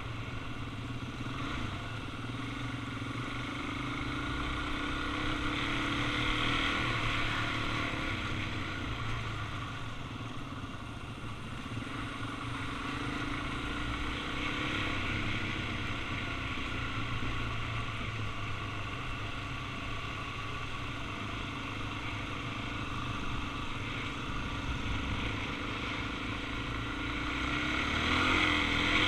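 Suzuki DR-Z400's single-cylinder four-stroke engine running steadily while riding, under a continuous rush of wind and road noise, growing louder near the end.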